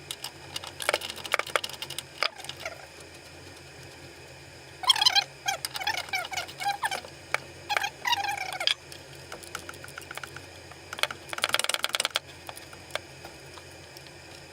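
Ratchet with an E18 Torx socket clicking in short rapid runs, with scattered metal clicks, as the engine mount bolts are tightened.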